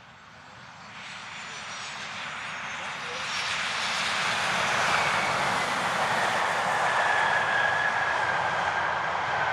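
Boeing 737 jet engines growing steadily louder as the airliner comes closer, then holding loud. The rushing noise carries a thin whine that slowly falls in pitch.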